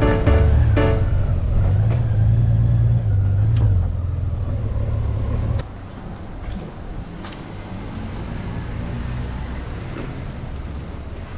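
Motorcycle engine running with road and wind noise, a steady low hum that drops noticeably in level about halfway through. Background music fades out about a second in.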